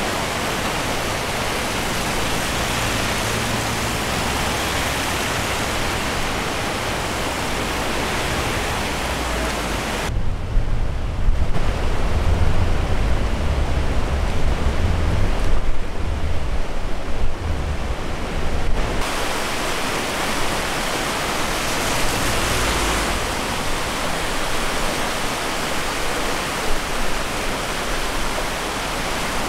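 Swollen river in flood rushing, a steady hiss of fast water. From about a third of the way in, for some eight seconds, wind buffets the microphone with an uneven low rumble that dulls the water's hiss.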